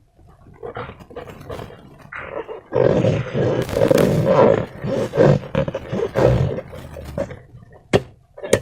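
Slime being squeezed and worked in a rubber balloon: rough, uneven squelching and rubbery squeaking, louder from about three seconds in, with two sharp clicks near the end.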